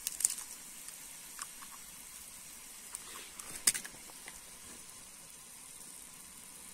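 Menemen sizzling faintly in a pan over wood-fire embers, a steady high hiss, with a few sharp clicks: two right at the start and one about three and a half seconds in.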